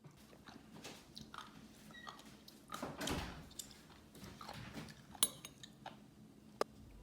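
Close-up chewing of raw horned turban sea snail slices, with a few sharp clicks.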